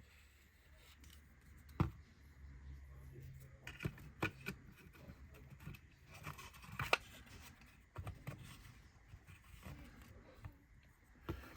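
Handling of laser-cut wooden model-kit parts: scattered light clicks and knocks as a side wall is slotted into place, with soft scraping and rubbing between them. The sharpest clicks come about two seconds in and again near seven seconds.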